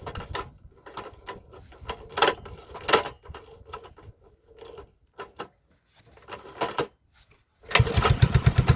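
MTZ-05 walk-behind tractor's single-cylinder UD-15 engine being cranked for a cold start, with irregular clatters and knocks, then catching near the end and running with a fast, even beat.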